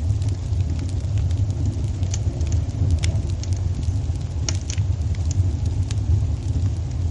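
Wood fire in a fireplace crackling, with irregular sharp pops and snaps, a few a second, over a steady low rumble.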